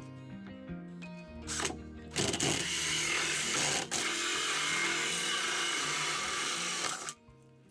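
A machine starts up and runs loudly and steadily for about five seconds, with one brief break partway through, then cuts off suddenly. Background music with a melody plays throughout.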